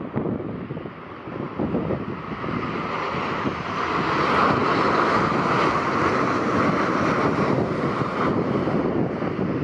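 Airliner's jet engines growing louder as the aircraft passes, peaking about halfway through, with wind buffeting the microphone.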